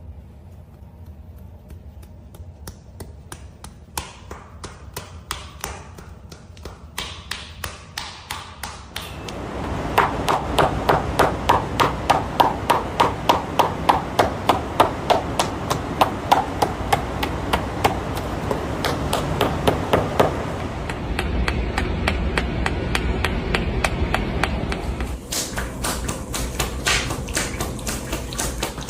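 Buttocks clapping together in a fast, even rhythm of sharp slaps, about three a second, growing louder about nine seconds in.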